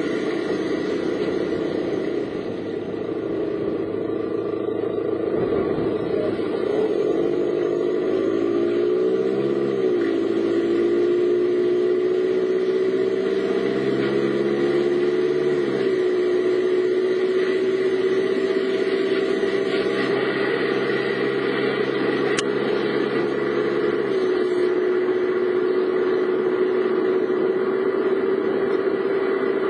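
A car's engine and road noise while driving. The engine note climbs slowly and drops sharply at gear changes about ten and sixteen seconds in, and eases down again later on.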